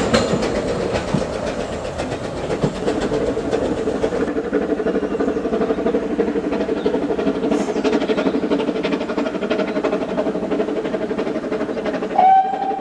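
Vale of Rheidol narrow-gauge steam locomotive running with its train, with a steady rhythmic rattle of wheels and rail. A short, loud steam whistle blast sounds near the end.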